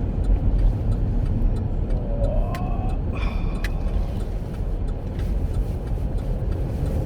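Steady low road and engine rumble inside a Chevrolet Captiva's cabin while driving, with a loose glass dinging briefly in the back about three seconds in.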